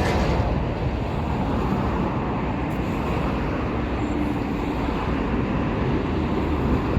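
A train running past, a steady rumble and rush with a faint held tone partway through.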